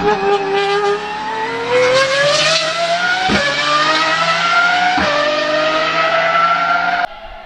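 V12 sports car engine accelerating hard, its pitch climbing steadily, with two brief breaks as it shifts up about three and five seconds in. The sound cuts off suddenly near the end.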